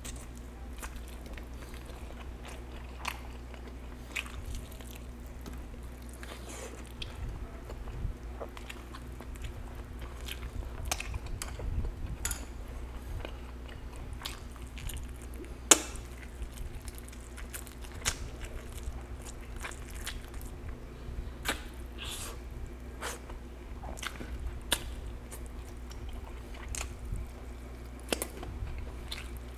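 A person chewing and biting roast chicken, with short sharp mouth clicks scattered throughout; one click about halfway through is the loudest. A low steady hum lies underneath.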